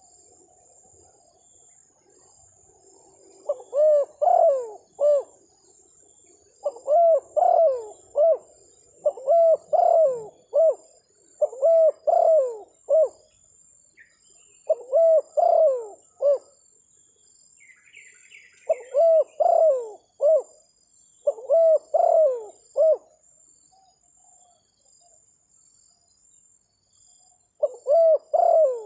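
Spotted dove (terkukur) cooing: about eight phrases of three or four coo notes, each phrase about a second and a half long, repeated every two to three seconds, with a longer pause about three-quarters of the way through.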